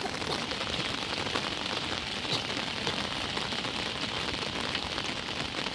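Rain falling steadily, a continuous hiss dotted with many small, separate drop hits.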